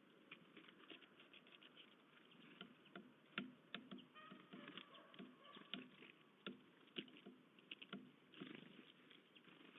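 Faint, irregular tapping and clicking of animals feeding at a bird feeder, pecking and handling seeds on the feeder.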